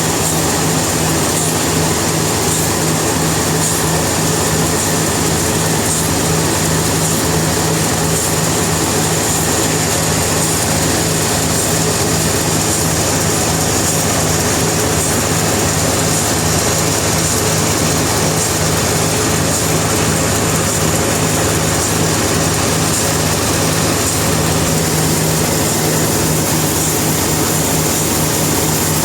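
Sawmill machinery running steadily: a loud, even mechanical drone with a pulsing low hum under it.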